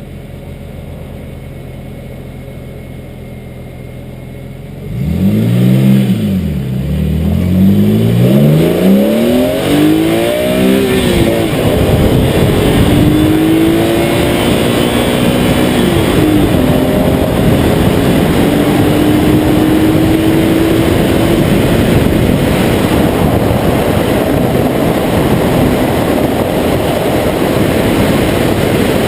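BMW E46 M3's straight-six through a Dinan exhaust idling, then about five seconds in accelerating hard, the engine pitch climbing and dropping back through several quick upshifts. It then pulls on with a slowly rising note before settling into a steady rush of road and wind noise over the engine.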